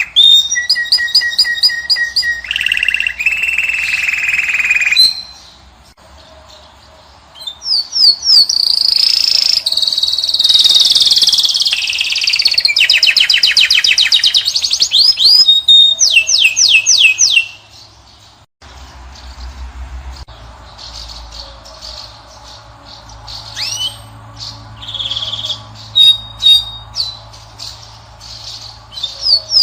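European goldfinch and canary singing: rapid trills, whistled glides and twittering, loud with a brief lull early on. About two-thirds of the way through, the song abruptly becomes fainter and sparser over a low steady hum.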